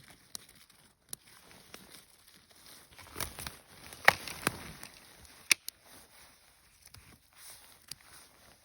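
Dry forest-floor litter crackling and rustling, with a scattering of sharp snaps; the loudest snaps come about four and five and a half seconds in.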